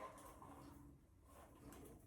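Near silence: room tone with a few faint, soft rustling noises.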